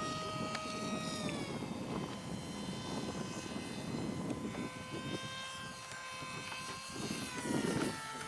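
RC model plane's motor and propeller whining steadily, stepping down in pitch about a second in and again near the end as the throttle is eased, over rushing wind noise.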